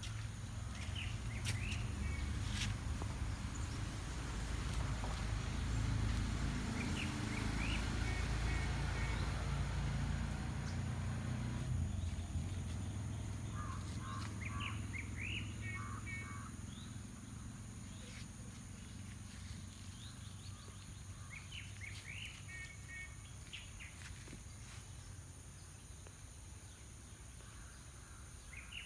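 A bird repeating a short song phrase of quick chirps and held notes about every seven seconds, over a steady low rumble of outdoor background noise.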